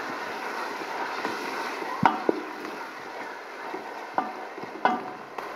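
Tomatoes and onions sizzling in hot oil in a steel pot as a wooden spatula stirs them, with a few sharp knocks of the spatula against the pot.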